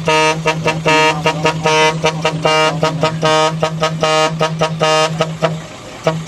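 A vehicle air horn sounding a rhythmic string of short and longer blasts with a rich, many-toned sound, over a steady low hum.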